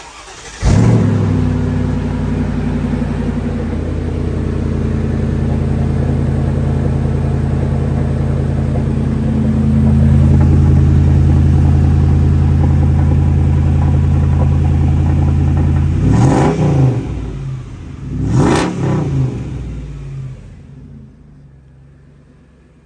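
Mercedes-Benz G500's M113 5.0-litre V8, breathing through a straight-through pipe in place of the middle exhaust silencer, is started up: a brief crank, then it catches with a flare of revs and settles into a steady idle. Two quick blips of the throttle a couple of seconds apart, then the engine sound fades away near the end.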